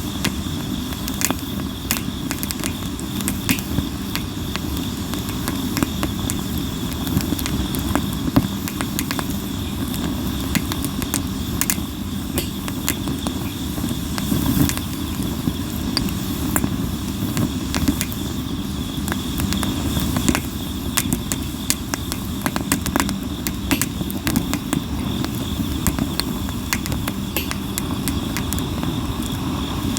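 Sawara cypress wood burning in a campfire, crackling and popping constantly over a steady low rumble. A steady high insect trill runs underneath.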